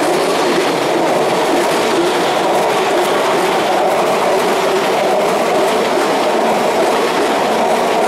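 Yokohama Minatomirai Railway Y500-series electric train rolling past close by on a curve: steady wheel-on-rail running noise with a few clacks over the rail joints.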